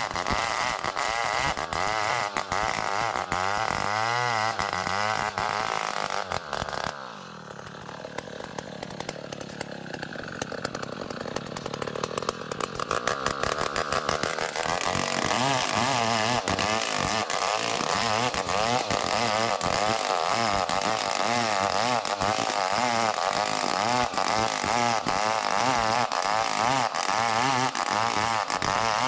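Two-stroke chainsaw sawing a small ulin (ironwood) log into a beam at full throttle. About seven seconds in the engine drops to a low run, then climbs back up around fifteen seconds and cuts steadily again.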